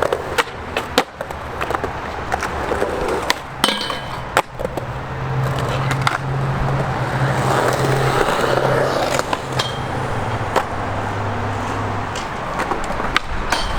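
Skateboard wheels rolling with repeated sharp clacks and knocks of the board hitting the ground, and a steady low hum in the middle stretch.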